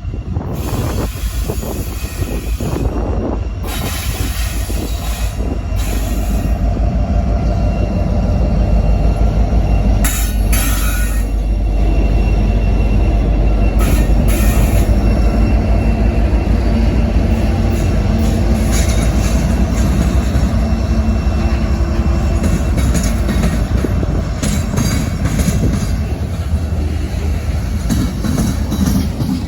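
Norfolk Southern freight train rolling past, a loud steady rumble of its cars on the rails that builds over the first several seconds, with brief high-pitched squeals from the wheels partway through.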